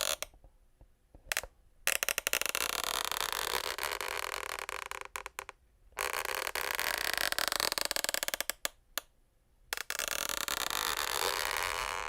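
Wooden parquet floor creaking: a series of long, drawn-out creaks, each a few seconds long, separated by short pauses.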